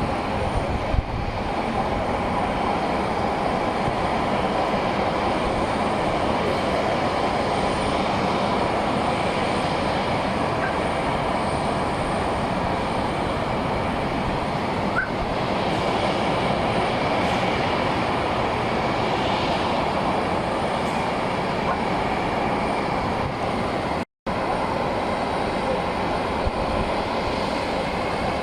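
Jet aircraft engine noise, a steady loud rushing sound with no clear rise or fall, broken by a brief cut to silence about 24 seconds in.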